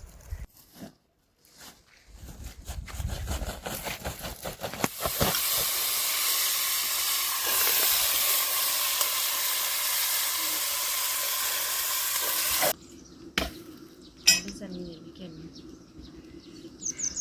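Food frying in hot oil: a crackly sizzle builds over a few seconds into a loud, steady hiss, which cuts off suddenly about thirteen seconds in. A few clatters follow.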